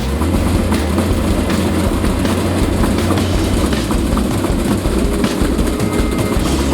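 Washing machine drum spinning at high speed with a heavy loose object inside, making a loud continuous rumbling clatter of rapid irregular knocks.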